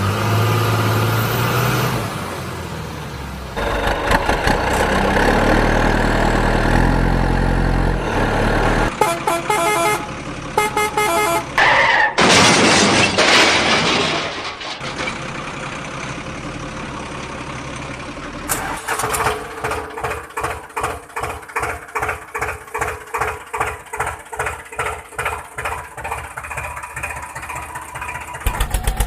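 A string of truck sound effects: a low engine running, truck horn honks about nine to twelve seconds in, then a loud hiss. The last third is an even pulsing of about two to three beats a second.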